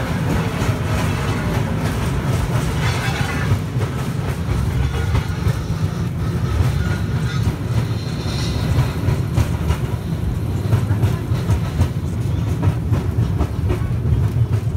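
Excursion train carriage running along, heard from a passenger seat in the open-sided car: a steady low rumble with a light clatter of clicks and rattles.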